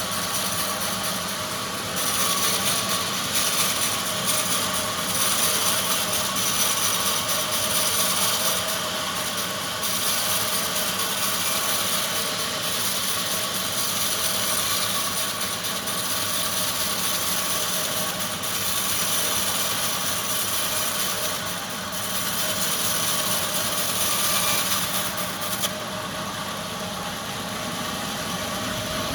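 Sawmill machinery running steadily, with long stretches of louder high hissing while it cuts timber, broken by short dips about 10, 21 and 26 seconds in.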